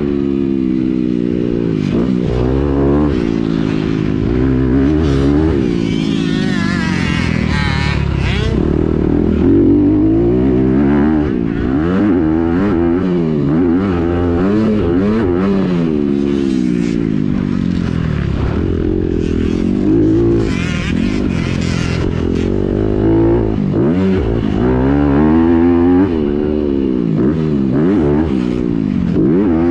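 Honda CRF250R four-stroke single-cylinder dirt bike engine revving up and down again and again under hard riding, its pitch climbing through each gear and dropping between, about every second or two.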